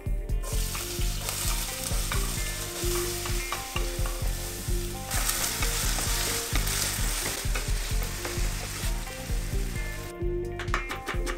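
Diced potatoes sizzling as they fry in hot oil in a nonstick pan, turned with a wooden spatula. The sizzle starts about half a second in, grows louder around the middle and dies down near the end.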